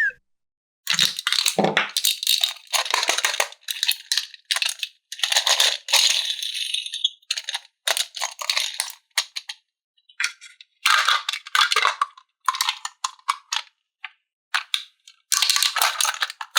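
Irregular bursts of rattling and rustling as toy playset parts and packaging are handled, with short gaps of silence between them.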